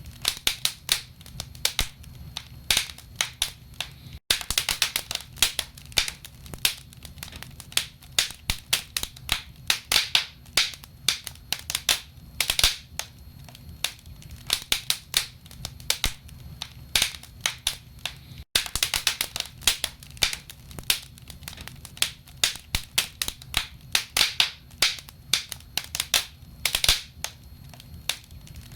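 Burning firewood crackling and popping in a fireplace: a dense, irregular run of sharp snaps over a low steady rumble. The sound cuts out for an instant twice.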